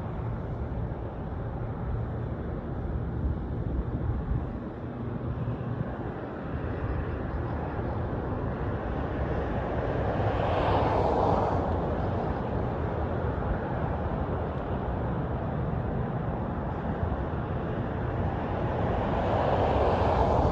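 Airbus A320neo airliner on its landing, its CFM LEAP-1A engines and airflow making a steady low rumble. The rumble swells louder with a rushing sound twice, about halfway through and near the end.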